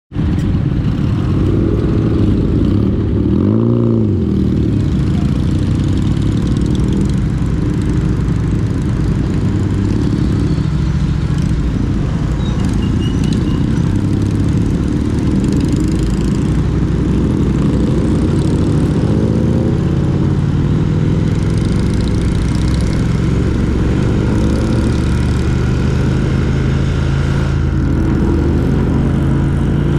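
Engine and road noise of a moving road vehicle, running steadily, with a brief rise and fall in engine pitch about four seconds in and the engine pitch climbing slowly near the end.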